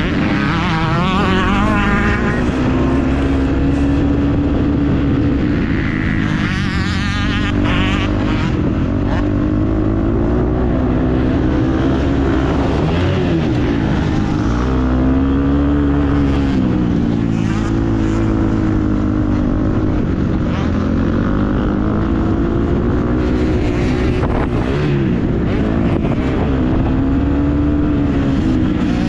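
Motocross bike engine being ridden hard, its pitch rising and falling again and again as the rider opens and closes the throttle and shifts.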